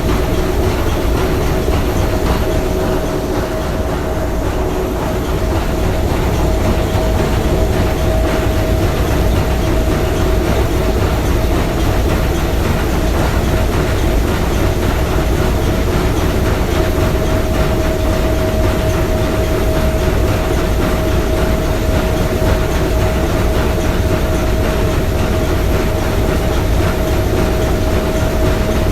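S.S. Bohuslän's three-cylinder triple-expansion marine steam engine running at a steady pace: a dense mechanical clatter over a constant hum.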